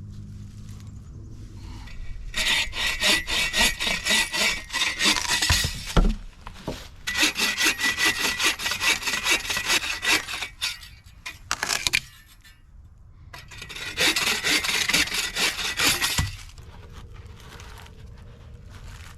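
Hand saw cutting wood in three bouts of quick back-and-forth strokes, the last bout shorter, with a thump about six seconds in.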